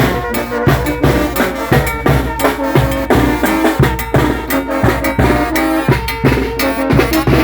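A Mexican brass banda playing live: sustained brass lines over a steady drum beat with bass drum.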